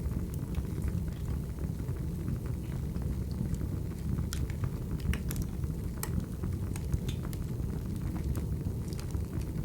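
Wood fire crackling: a steady low rumble of burning logs with irregular sharp pops and snaps scattered throughout.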